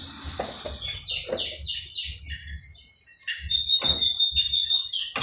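A songbird singing: a fast high trill, then a run of descending sweeps and a held high whistle. A short clatter comes near the end as the frying pan is handled.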